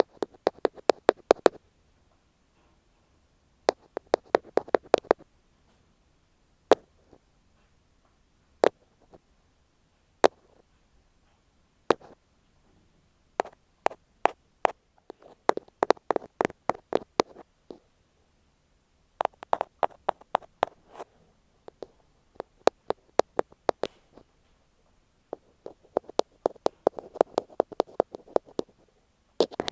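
An ear pick tapping directly on an earphone microphone, close and clicky. The taps come in quick runs of several a second, broken by a few single taps and short silent pauses.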